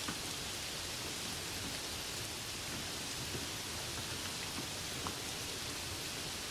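Steady rain falling, an even hiss, with a couple of single sharp drip ticks, one at the start and one about five seconds in.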